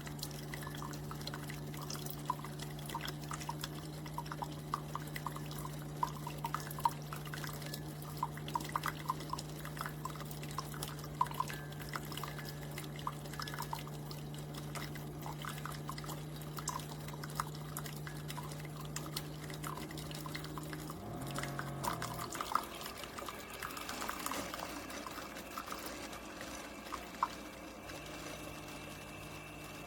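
Keurig K-Supreme single-serve coffee maker brewing: a steady pump hum with coffee dripping and trickling into the cup. The hum breaks off and changes about two-thirds of the way through.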